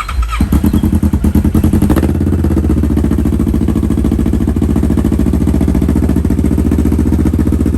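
Small motor-vehicle engine firing up about half a second in, running unevenly for a second or so, then settling into a steady idle.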